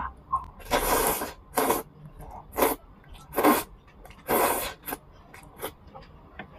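Slurping zhajiangmian noodles: about five short, hissing slurps, the longest about half a second, in the first five seconds, then a few faint mouth clicks.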